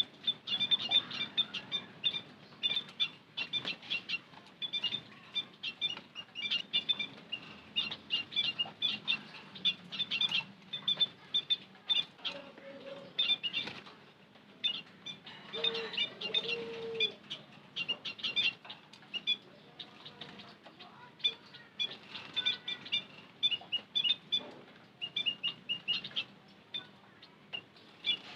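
White-headed munias chirping: a rapid, continuous run of short, high, thin chirps, mixed with scattered sharp clicks.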